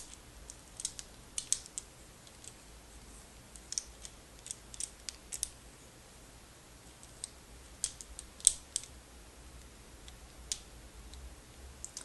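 Sparse, irregular light clicks of small hard objects handled close to the microphone, one sharper click about two-thirds of the way through.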